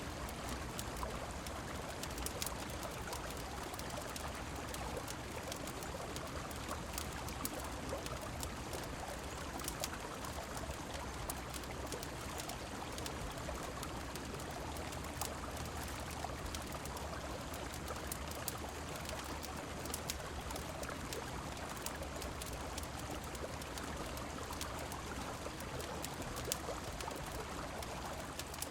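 Steady rushing of river water mixed with falling rain, with scattered sharp crackles throughout.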